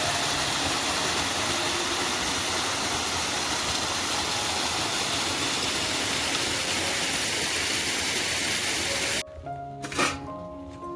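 A steady, loud rushing hiss that starts and stops abruptly, cutting off about nine seconds in. Background music with a sharp click follows it.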